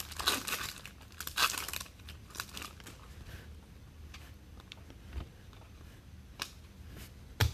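Crinkling and rustling of trading-card packaging and cards being handled, dense for the first two seconds, then quieter with a few sharp clicks near the end.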